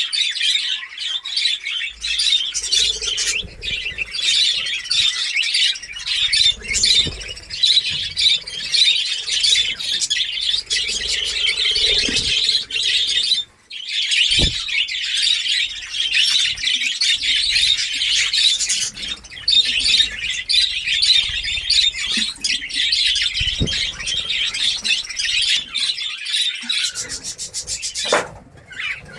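A flock of budgerigars chattering and chirping continuously, many birds calling over one another, with a brief break about halfway through.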